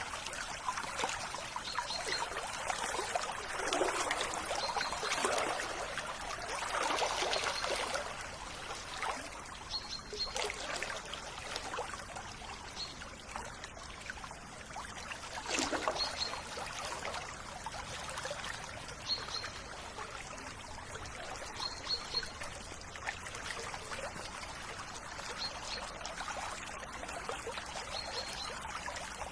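River water trickling and splashing continuously, swelling and easing in surges. Brief high bird chirps come every few seconds.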